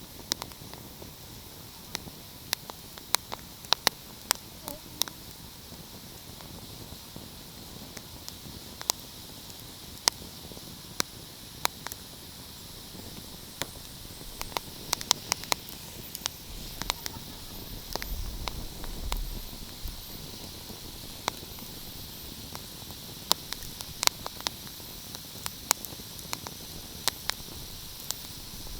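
Wood fire crackling: a steady hiss with irregular sharp pops and snaps, several in quick clusters, and a brief low rumble about eighteen seconds in.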